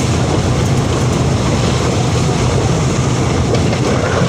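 Steady rumble of a passenger train in motion, heard from on board.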